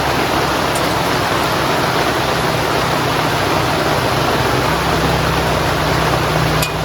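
Heavy rain falling steadily, a dense hiss with a low drumming underneath.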